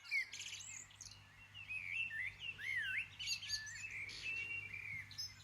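Several songbirds chirping and singing, with overlapping short whistled notes, trills and pitch sweeps throughout.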